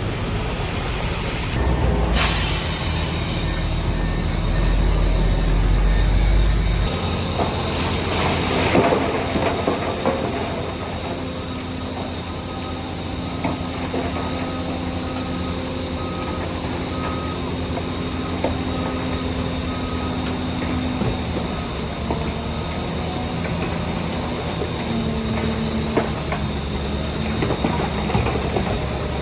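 Heavy diesel earthmoving machinery working, with the engine running and a steady hiss and clatter, heavier and deeper between about two and seven seconds in.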